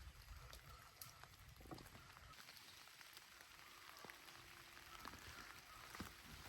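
Faint rain falling, an even hiss with scattered drops ticking irregularly.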